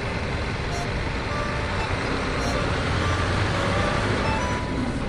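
Steady truck engine rumble with scattered short high beeps.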